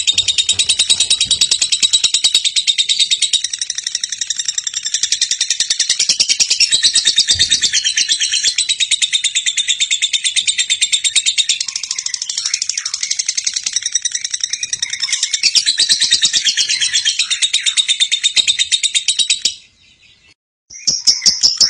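Lovebird chattering in a long, rapid string of high, shrill chirps (the drawn-out "ngekek"). It breaks off for about a second near the end, then starts again.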